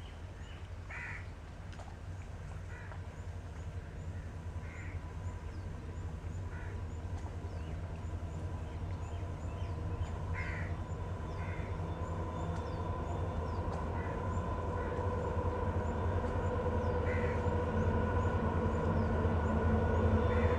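Diesel locomotive approaching, its low rumble and steady engine tones growing louder, while birds call every few seconds.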